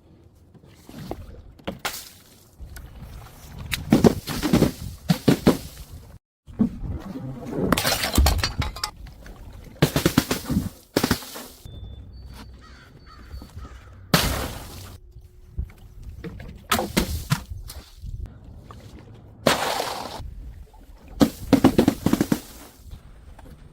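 A string of separate crashes and crunches, about eight of them a second or two apart, some with a short crackling tail: glass bottles smashing and things being crushed.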